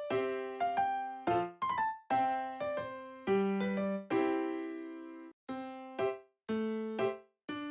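Background music: a light keyboard melody of piano-like notes, each struck sharply and dying away, with short breaks between phrases in the second half.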